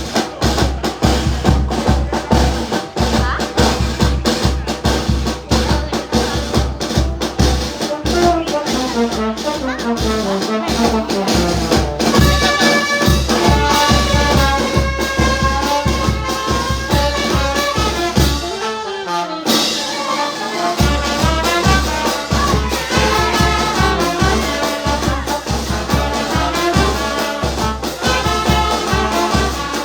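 Brass band music with a steady, pulsing bass-drum beat. The drum drops out for about two seconds roughly two-thirds of the way through, then comes back in.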